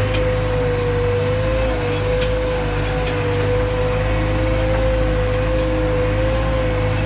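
JCB backhoe loader's diesel engine running steadily: a constant low drone with a steady whine on top that wavers slightly in pitch.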